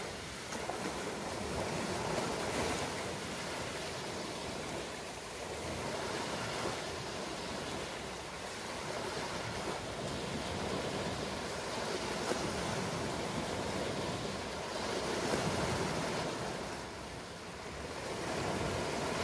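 Ocean surf washing continuously, swelling and easing every few seconds as waves break and run up the shore.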